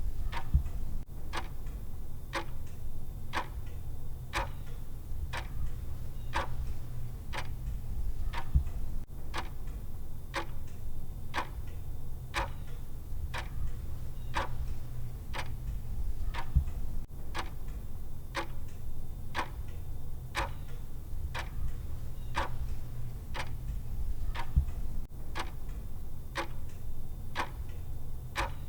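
Clock-style tick sound of a countdown timer, ticking evenly at about two ticks a second over a steady low hum.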